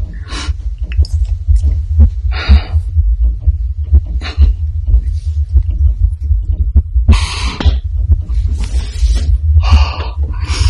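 A woman's amplified heartbeat, a deep pulsing thump that runs on steadily, with short hissy bursts over it; the loudest burst comes about seven seconds in.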